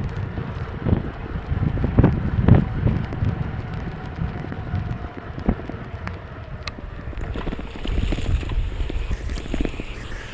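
Wind buffeting the microphone of a moving mountain bike, with scattered knocks and rattles from the bike riding over rough ground.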